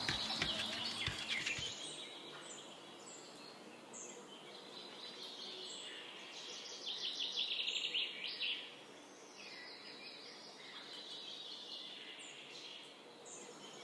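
Songbirds chirping and singing, with a faster, louder run of chirps about seven to eight and a half seconds in. A few light knocks sound in the first two seconds.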